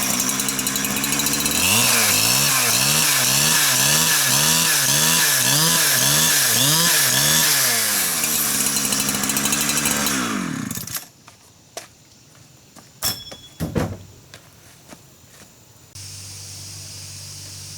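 Chainsaw running, its engine pitch swinging up and down over and over as it works, then stopping about eleven seconds in. A few sharp knocks follow, and a steady low hum starts near the end.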